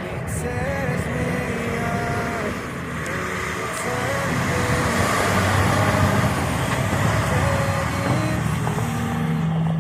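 A railroad truck passing, its engine and tyre noise swelling to a peak in the middle and then easing off, over a song with a slow sung melody.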